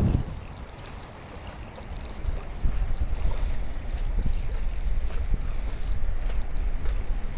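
Wind buffeting the microphone as a low, uneven rumble, with a few faint ticks.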